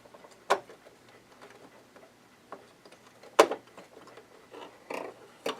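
Sharp, irregular clicks and knocks of small metal and plastic parts being handled as the needle plate comes off a Janome ME4014 sewing machine, about five in all, the loudest a little past halfway.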